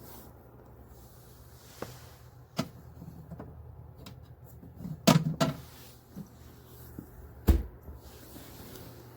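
Clicks and knocks of a small plastic mini fridge being handled, its door opened and shut. The loudest cluster comes about five seconds in, and one heavy thump follows about two seconds later, all over a steady low hum.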